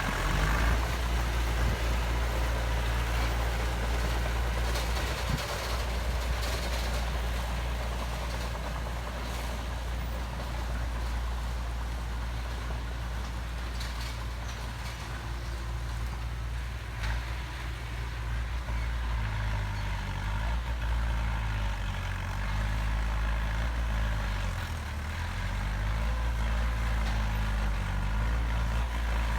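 Heavy diesel engine of earthmoving machinery running steadily, its pitch rising and falling in the second half as the engine speed changes, with a few short knocks.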